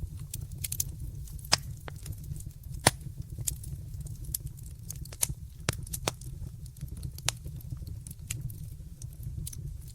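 Fireplace fire crackling: irregular sharp pops and snaps over a steady low rumble, with the loudest pop about three seconds in.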